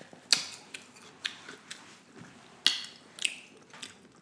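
Close-miked chewing: a string of sharp, wet mouth clicks and smacks, loudest about a third of a second in and again about two and a half seconds in.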